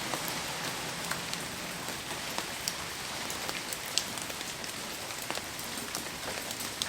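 Heavy rain falling: a steady hiss with many scattered sharp ticks of drops striking nearby, the loudest about four seconds in.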